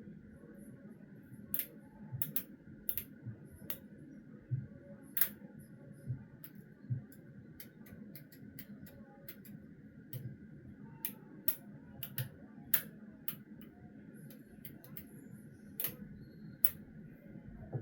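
Irregular light clicks and taps, about one or two a second, over a faint steady hum.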